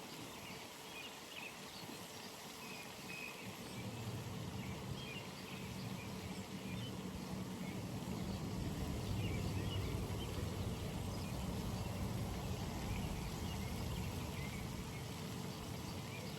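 Outdoor pond ambience with faint, scattered bird chirps. From about four seconds in, a low, steady rumble swells up and stays the loudest sound.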